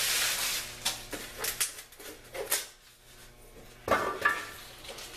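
Handling noise while unpacking an air compressor: plastic packing rustles, then come scattered light clinks and knocks, the loudest a pair of sharp knocks about four seconds in.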